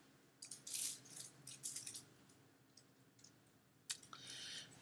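Faint computer mouse handling: short soft scuffs as the mouse is moved, and a single sharp click about four seconds in.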